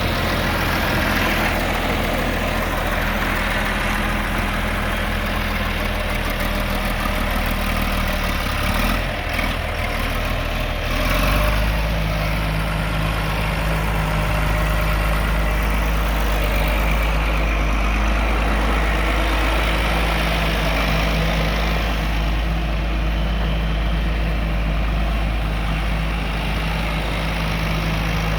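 John Deere 4230 tractor's six-cylinder diesel engine running steadily. About eleven seconds in, its note shifts and then holds at the new pitch.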